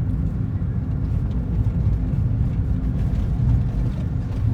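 Tow truck engine running steadily while the truck drives along a road: a continuous low drone with road noise and no change in pace.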